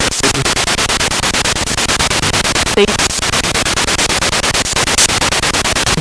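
Spirit box radio sweeping rapidly through stations: loud static chopped into a fast, even rhythm, with a brief snatch of broadcast sound about three seconds in.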